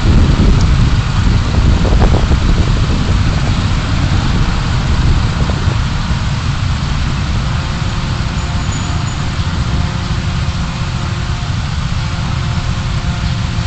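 Road and engine noise from a car being driven, picked up by its dashcam: a steady low rumble that eases a little after the first few seconds.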